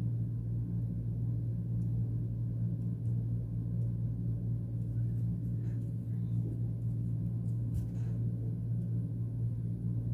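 A steady low hum, unchanging throughout, with a few faint small ticks over it.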